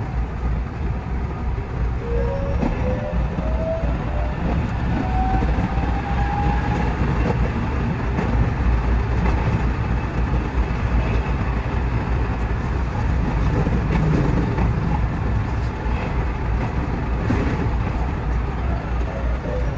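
A JR West 207 series electric train running along the track, a steady rumble of wheels on rail heard from the cab, with a tone rising in pitch from about two to seven seconds in.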